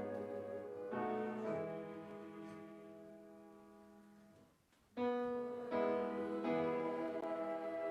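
Slow instrumental music on a piano: held chords, one dying away over about three seconds into a short pause, then a new chord struck about five seconds in.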